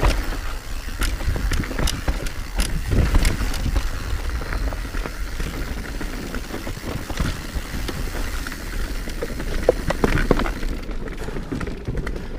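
Mountain bike riding over a dirt trail: tyres rolling with a low rumble, and many sharp clicks and rattles from the bike as it goes over bumps.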